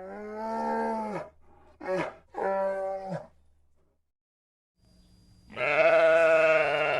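Farm animal bleating: three calls in the first three seconds (a long one, a short one, then another), then a louder, longer, wavering bleat over the last second and a half.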